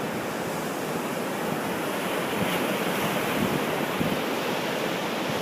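Heavy ocean surf breaking and washing up a beach: a steady, continuous rushing wash of water.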